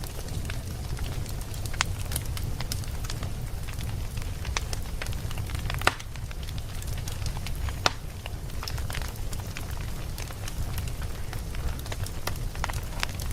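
Wood fire burning with a steady low rumble and irregular sharp crackles and pops. The biggest snaps come about six and eight seconds in.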